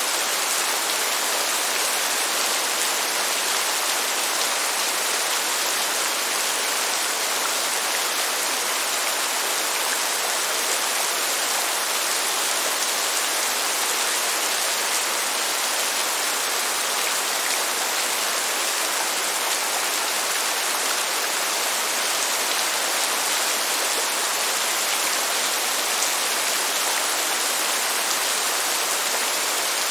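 Steady, even rain, a continuous hiss with no thunder or separate drops standing out.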